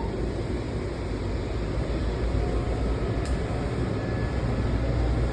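Metro subway train in motion: a steady low rumble of wheels and running gear, with a single sharp click about three seconds in.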